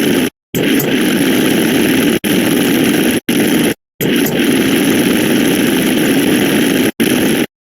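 Loud, rough, steady noise from a sound-effects track, cut into pieces by several short abrupt silences and stopping suddenly near the end.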